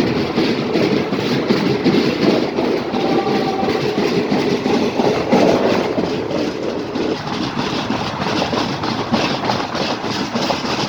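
Train running close past, its wheels clattering over the rail joints in a steady clickety-clack.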